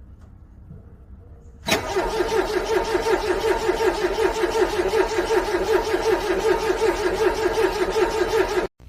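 A car's starter cranking a cold engine that is struggling to start: a fast, even, pulsing churn that begins suddenly about two seconds in and stops abruptly near the end.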